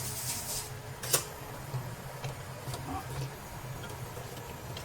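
Scattered light clicks and one sharper tap about a second in, over a steady low hum, with a short hiss at the very start.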